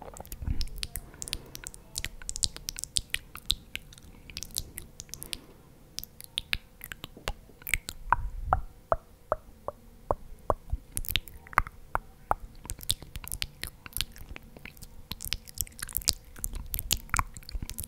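Close-miked chewing of food: many sharp, wet mouth clicks and smacks at an irregular pace, with a faint steady hum underneath.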